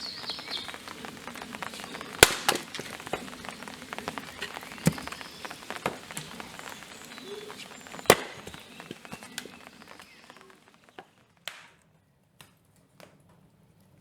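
Storm rain with large drops hitting a hard surface close by: a dense patter with a few loud, sharp hits, thinning out after about ten seconds to scattered single drops.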